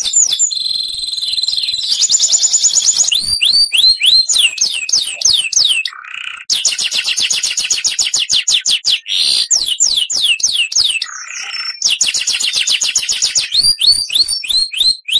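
Oriental magpie-robin (kacer) singing a loud, varied song of fast runs of repeated high notes and downward-slurred whistles, with a few short pauses, cutting off suddenly at the end.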